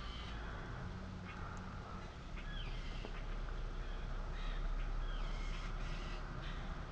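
Birds mobbing a perched hawk, giving a string of short, harsh falling alarm calls about one every second or so, over a steady low hum.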